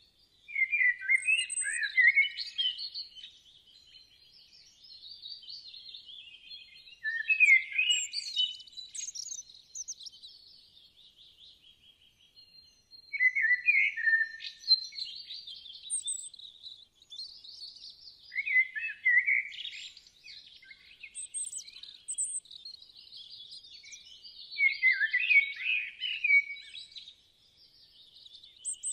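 Songbirds singing and chirping: a loud, warbled phrase every five or six seconds, with softer twittering between.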